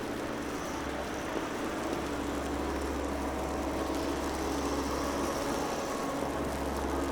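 Steady city street noise with the low, even hum of a motor vehicle's engine running.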